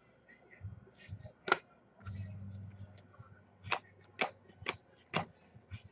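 A handful of sharp, short clicks and taps, about five of them, most close together in the second half, typical of cards and plastic holders being handled on a table. A brief low murmur comes about two seconds in.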